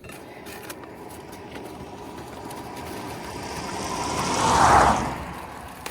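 A vehicle driving past on the highway, growing louder over a few seconds to a peak about four and a half seconds in, then fading quickly.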